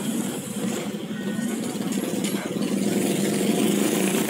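Motorcycle engines running with a rapid, even putter.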